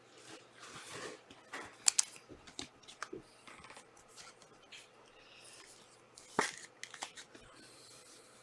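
Trading cards and their foil packs being handled on a table: scattered clicks, soft rustling and crinkling, with sharper snaps about two seconds in and again about six seconds in.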